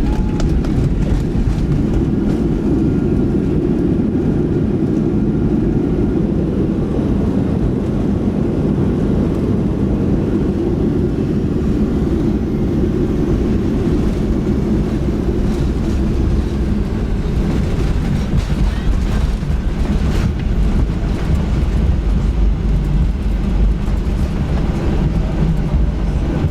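Airliner cabin noise during the landing roll just after touchdown: a loud, steady rumble of the engines and the wheels on the runway, easing off about halfway through as the plane slows, with a few light knocks later on.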